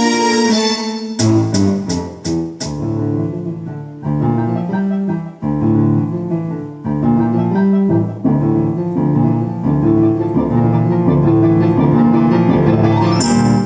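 Keyboard piano playing a slow blues-style piece in held chords over a backing accompaniment at a set tempo, with a quick run of five sharp percussive hits about a second in.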